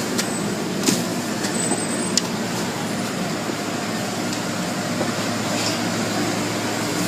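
Automatic car wash equipment running: a steady rush of noise over a constant low hum, with a few faint clicks.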